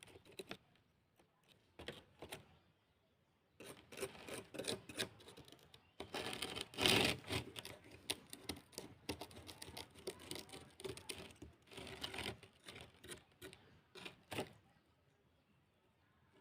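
Hands working on a WiFi router: scattered light clicks and taps with stretches of rubbing or scraping, loudest about seven seconds in, then fading to quiet near the end.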